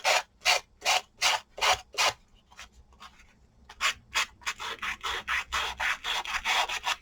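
A Tim Holtz sander with a sanding disc rubbing along the edges of a napkin-covered chipboard tag, taking off the overhanging napkin for a clean edge. There are about six even strokes, a short pause, then a quicker run of strokes.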